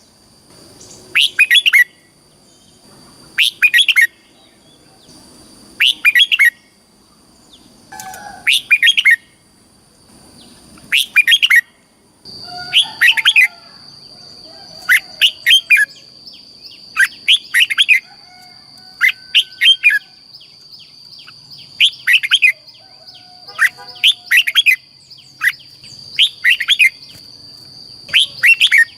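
Red-whiskered bulbul singing: short, loud, sweeping whistled phrases repeated about every two seconds, a dozen or so in all. A steady high-pitched whine runs underneath and grows louder about twelve seconds in.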